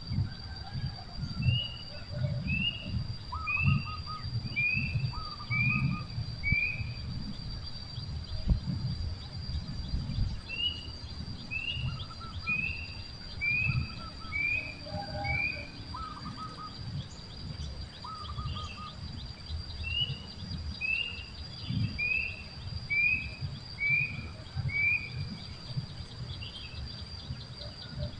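A bird singing three phrases, each a run of about six short, falling whistled notes at a slowly descending pitch, with a few lower two-part calls between them. Under it run a steady high whine and low, gusting rumble like wind on the microphone.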